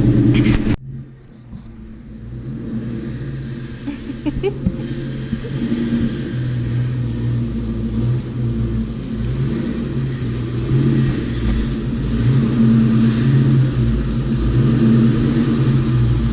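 2003 Ford Mustang GT V8 with an aftermarket exhaust, running in a steady low rumble; it is loud for under a second, cuts off suddenly, then comes back quieter and slowly builds to a steady note as the car is moved. The owner is chasing an exhaust leak at the x-pipe near the headers.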